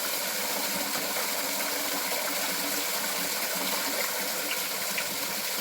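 Steady rush of flowing stream water, with a couple of faint ticks near the end.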